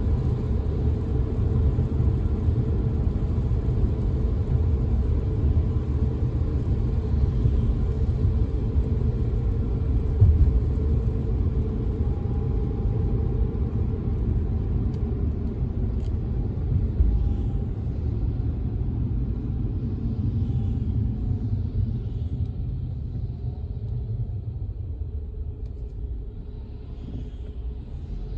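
Steady low road rumble of a car being driven in the rain, heard from inside the car, with a few faint taps; it grows somewhat quieter over the last few seconds.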